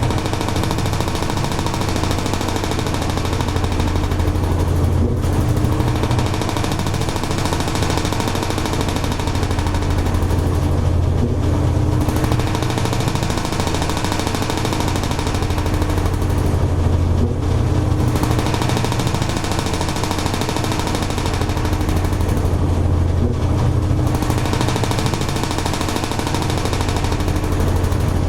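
Toshiba AW-42SEE4(S) fully automatic washing machine running, a steady loud motor hum under a churning noise that briefly drops away about every six seconds.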